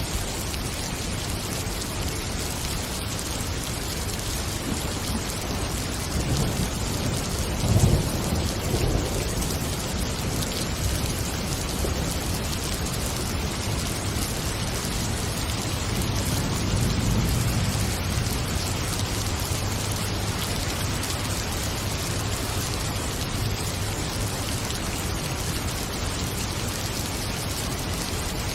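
Storm sound: a steady rain-like hiss with low rumbles of thunder, the loudest one about eight seconds in and a longer, softer rumble around seventeen seconds in.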